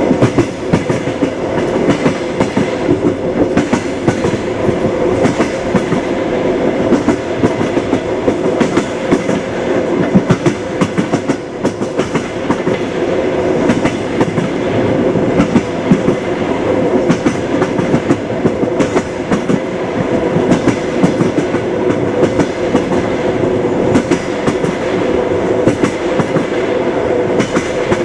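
A moving train runs steadily, its wheels rumbling and knocking over the rail joints (clickety-clack), with a steady hum underneath.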